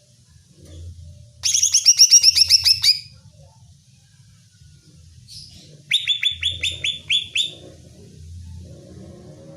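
Green leafbird (cucak ijo) singing in two fast bursts of about a dozen sharp down-slurred notes each, the first about a second and a half in, the second about six seconds in.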